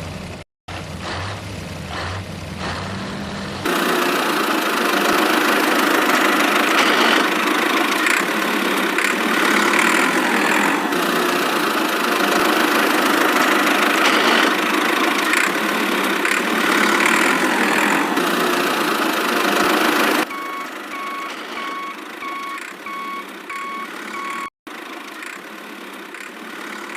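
Heavy vehicle engine sound, probably a sound effect: it runs low for a few seconds, then much louder for about a quarter of a minute. Near the end it drops back, and a reversing alarm beeps steadily over it.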